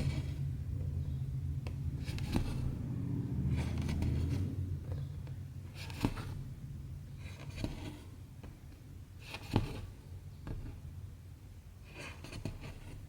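A needle repeatedly poked through cross-stitch fabric and cotton thread drawn through it: short scratchy strokes, each with a small click, every second or two. A low rumble fades out over the first few seconds.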